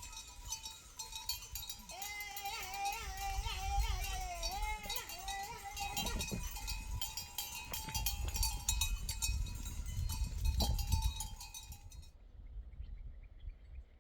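Bells on a flock of sheep and goats clinking and ringing continuously, with a long wavering call from about two seconds in; the bells stop abruptly near the end.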